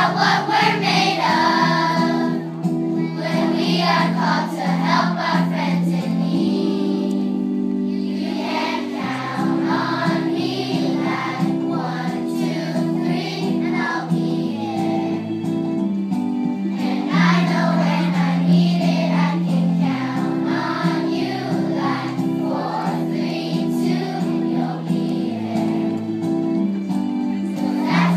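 A group of voices singing together as a choir over steady held chord accompaniment.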